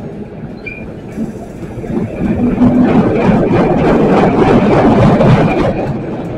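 An electric commuter train moving alongside the platform: its wheels rumble and clatter over the track. The noise swells loud from about two seconds in and eases off near the end.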